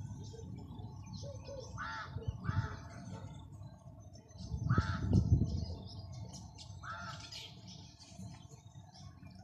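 Birds calling: short arched calls repeat every second or two, with fainter chirps between them. A low rumble about halfway through is the loudest part.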